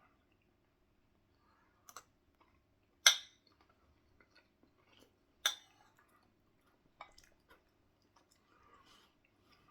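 Someone eating curry: quiet chewing and a few sharp clinks of cutlery against the dish, the two loudest about three and five and a half seconds in.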